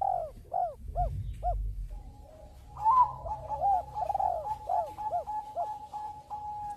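Zebra dove (Bangkok perkutut) cooing: a quick series of short notes that rise and fall in pitch. From about two seconds in, a steady held tone sounds beneath further rounds of the cooing.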